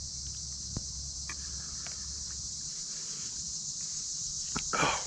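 Steady chorus of crickets and other insects, a continuous high shrill hum, with a few light clicks over it. A low background hum cuts out a little over halfway through.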